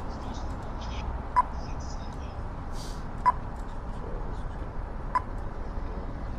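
Pedestrian crossing push-button locator tone ticking slowly and evenly, three short sharp ticks about two seconds apart, over steady low traffic noise.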